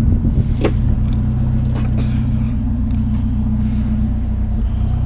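A vehicle engine idling with a steady low hum, with one sharp knock about half a second in and a couple of fainter knocks around two seconds in.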